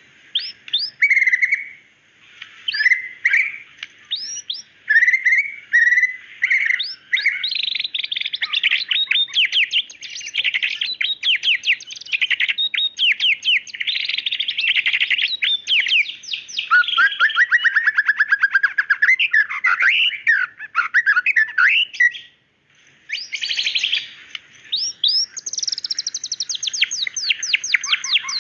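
White-rumped shama (murai batu) in full song: a long, varied run of whistled phrases and rapid trills, starting as short separate phrases and turning into dense, fast trills after about seven seconds, with one brief pause about 22 seconds in.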